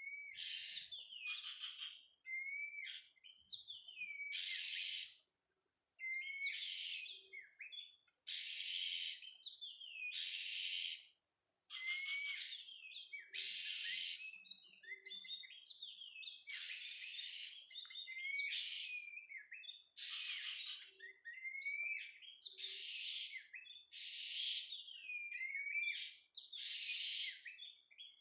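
Oriental magpie-robin (kacer) song: harsh rasping notes about every two seconds, alternating with short, rising whistled phrases, repeating evenly.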